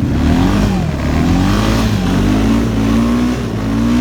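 Honda Foreman 500 ATV's single-cylinder engine revving under load, its pitch rising and dropping several times as it pulls up a hill.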